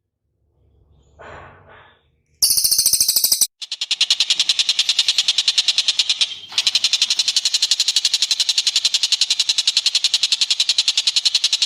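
Songbird recording: a faint short call, then from about two seconds in a loud, fast, pulsing high trill that runs on with two brief breaks.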